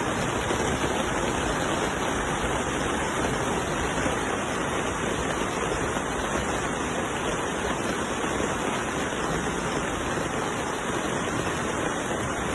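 Steady rush of spraying water, even and unbroken.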